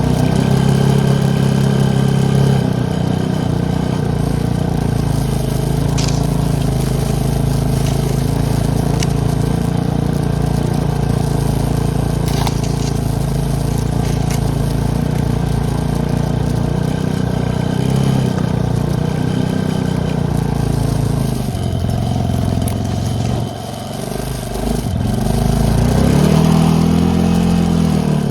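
ATV engine running steadily under way. Near the end the throttle drops off briefly, then the engine revs up and back down.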